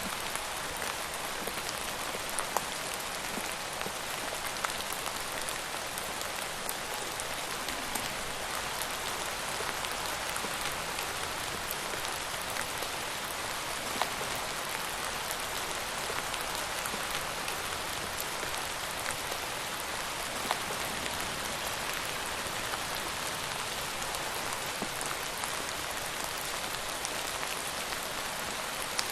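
Steady rain falling: an even hiss with scattered sharp ticks of single drops striking.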